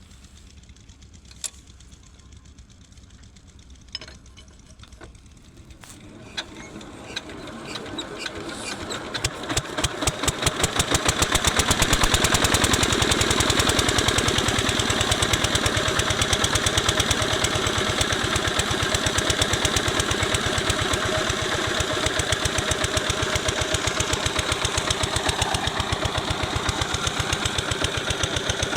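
Small 8 hp diesel water-pump engine starting. After a few faint clicks, its rapid chugging begins about six seconds in, speeds up and grows louder for several seconds, then settles into steady fast running.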